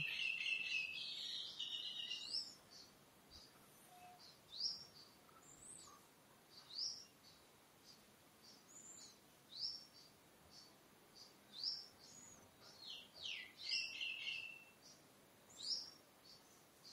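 Birds chirping faintly: short, rising high chirps about once a second, with a longer, steadier call at the start and again about 14 seconds in.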